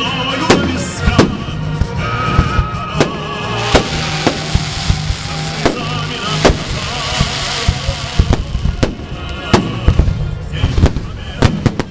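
Fireworks salute bursting overhead: about a dozen sharp bangs, irregularly spaced over a dense crackling hiss that swells in the middle, with music playing underneath.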